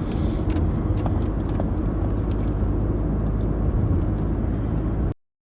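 Car driving: a steady low rumble of engine and road noise with a few faint clicks, which cuts off suddenly near the end.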